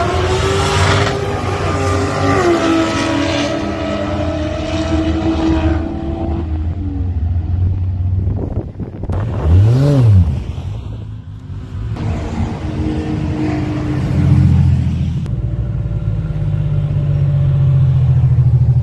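Drag cars accelerating hard down the strip, their engine notes climbing and then holding. About ten seconds in, a car revs up and drops back as it drives past close by. In the last few seconds the 2JZ-swapped VH Commodore wagon's turbo six-cylinder idles steadily.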